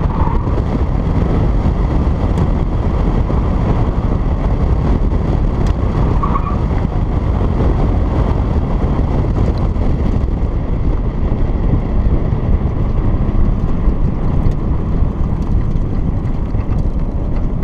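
1991 Mazda Miata's 1.6-litre four-cylinder engine running hard through an autocross run, heard from the open cockpit with wind noise on the microphone.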